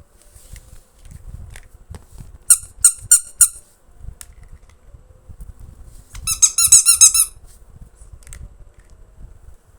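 High-pitched squeaks: four short, loud ones about two and a half seconds in, then a quick run of rapid squeaks lasting about a second near the middle, over soft low handling rumble and small clicks.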